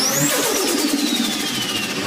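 Car engine blipped with a high forced-induction whine that climbs quickly in the first quarter second, then falls away slowly as the revs drop.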